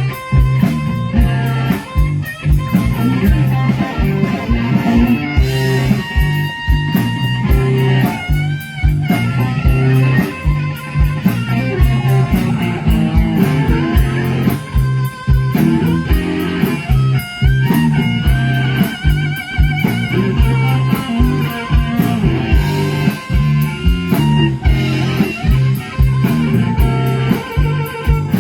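Live blues band playing an instrumental break: a lead electric guitar with bent, wavering notes over a bass line and a steady drum beat.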